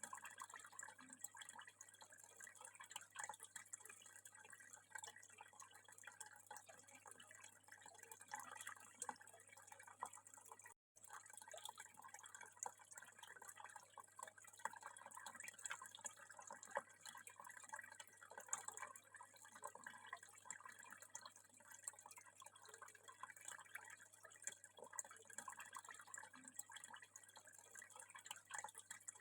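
Faint water trickling and dripping steadily, with a dense patter of small droplets and a brief break about eleven seconds in.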